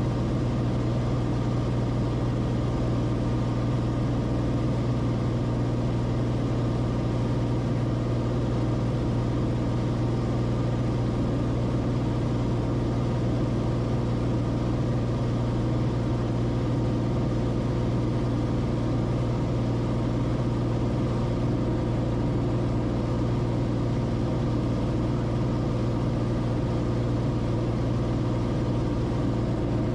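Steady drone of the Cessna Corvalis TTX's turbocharged six-cylinder engine and propeller heard inside the cabin in flight, a constant low hum with steady overtones.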